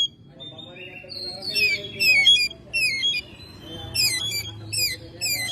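Oriental magpie-robin singing: loud, repeated short phrases of sharp falling whistles, with brief pauses between them.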